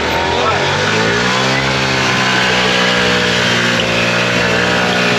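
A motor vehicle's engine running, its pitch easing down slightly about a second in and then holding steady, cut off abruptly at the end.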